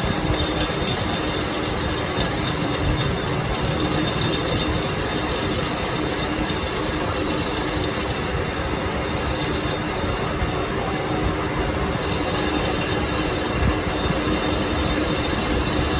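Machinery running steadily, a constant droning noise with a fixed low hum and a faint high whine, no strikes or pauses.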